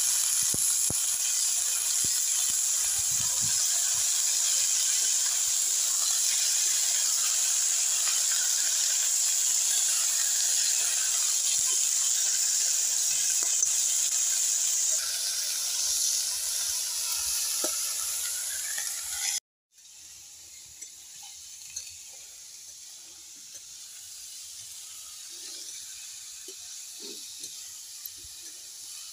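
Chopped radish greens frying in hot oil in a wok over a wood fire, sizzling loudly and steadily. About two-thirds of the way in the sizzle drops abruptly to a quieter hiss, with a few light clicks.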